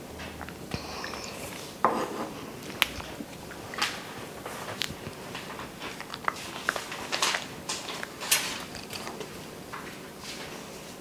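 Close eating sounds of a girl chewing agar-agar raindrop cake: scattered wet mouth clicks and smacks, with small taps of a wooden spoon.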